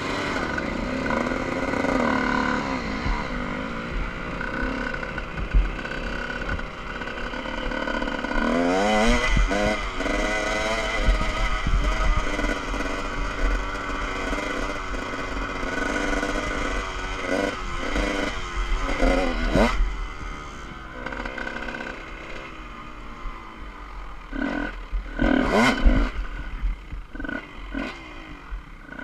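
Motocross dirt bike engine revving up and down while riding a track, with pitch repeatedly rising and falling, and a few sharp clattering knocks.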